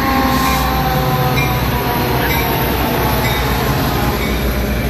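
Metra commuter train headed by two F40 diesel locomotives passing close alongside the platform as it pulls into the station: a steady, loud diesel and wheel rumble, with faint squealing tones that fall slowly in pitch over the first couple of seconds.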